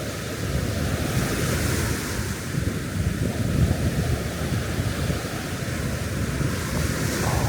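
Sea surf washing on a beach, a continuous hiss of breaking waves that swells about a second in and again near the end. Strong wind buffets the microphone with a heavy low rumble.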